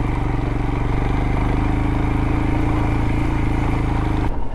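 Royal Enfield Himalayan's single-cylinder engine running steadily at an even throttle while riding over loose rocky ground; the steady note breaks off abruptly near the end.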